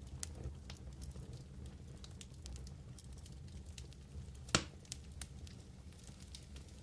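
Wood fire in a fireplace burning with a low steady rumble and scattered crackles, one loud pop about four and a half seconds in.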